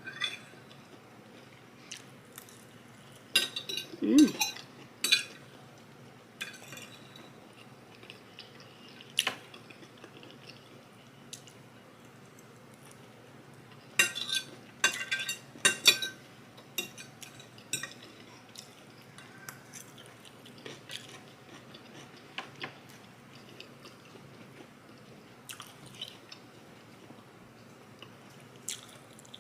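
Cutlery clinking and scraping on a plate during a meal, in two busy clusters of sharp clicks with quieter stretches between, and some chewing.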